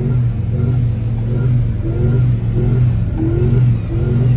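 Chevrolet TrailBlazer's 5.3-litre LS V8 revving hard, the pitch surging up in short pulls about twice a second over a steady deep drone.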